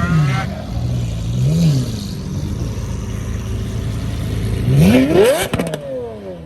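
Car engine idling, blipped once briefly about a second and a half in, then revved hard near the end. The rev rises steeply and drops back with a few sharp cracks, and the sound fades away.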